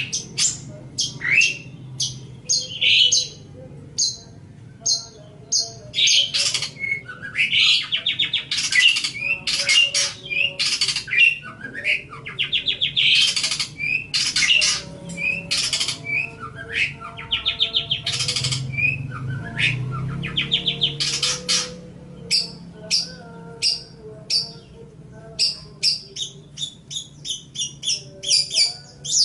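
Long-tailed shrike (cendet) singing a varied song of harsh squawks and short, sharp high notes, with fast buzzy rattling phrases in the middle and a quick run of clipped notes near the end.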